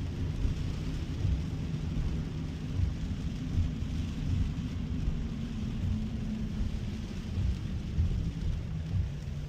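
Low, uneven rumble of road and tyre noise from a Tesla Cybertruck driving on wet roads in the rain, with a fainter steady hiss of rain and spray.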